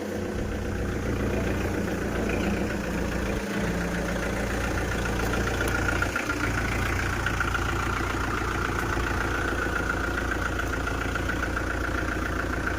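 Kubota MU4501 tractor's diesel engine idling steadily, with a steady higher whine coming in over it about halfway through.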